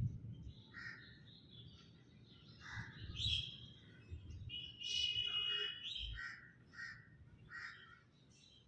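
Birds calling: a string of short, repeated calls, faint, with one longer call about five seconds in.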